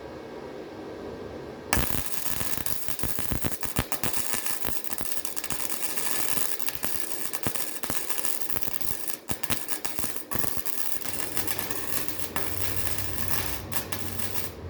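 Harbor Freight 125 wire-feed welder's arc crackling and sputtering steadily, starting suddenly about two seconds in, as a bead is run on thin steel.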